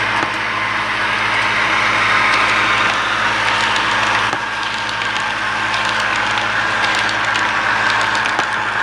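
HO scale model train running on the layout: a steady whirring rush with faint scattered ticks and a low steady hum underneath.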